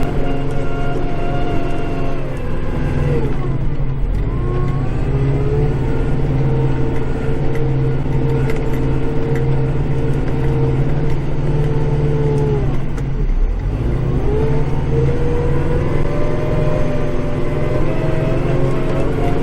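Kubota tractor's diesel engine running, heard from inside the cab. Its revs sag and recover twice, with a short, deep dip past the middle before it climbs back to a steady pitch.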